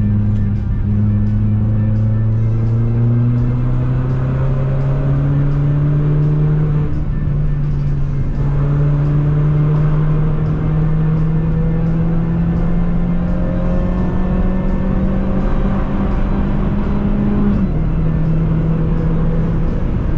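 Citroën C2 VTS's 1.6-litre 16-valve four-cylinder petrol engine pulling on the road, a steady drone whose pitch climbs slowly as the car gathers speed. The pitch drops back about three-quarters of the way through.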